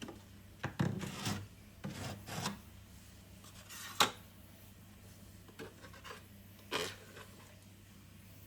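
Irregular scraping and rubbing strokes of hand work, with one sharp knock about four seconds in.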